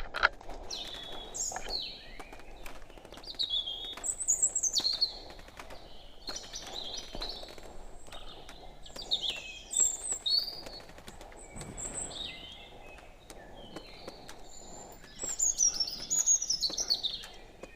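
Small birds singing and chirping in quick, high twittering phrases, loudest about four seconds in and again near the end, over faint scattered clicks.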